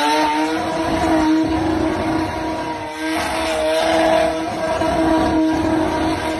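Mazda RX-7's rotary engine held at steady high revs during a burnout, its note staying level after climbing just before. Underneath it is a rough hiss from the spinning tyres.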